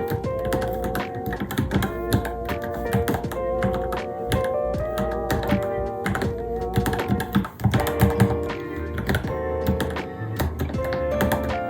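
Rapid, irregular keystrokes typed on a Varmilo Minilo keyboard, over background music with held tones.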